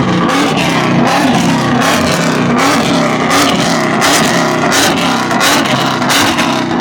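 Car engine revving loudly, its pitch rising and falling over and over through the exhaust.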